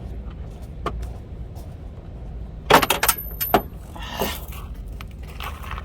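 Small metal screwdriver bits dropping and clinking, a quick cluster of sharp metallic clicks with a faint high ring about three seconds in, then a brief scrape.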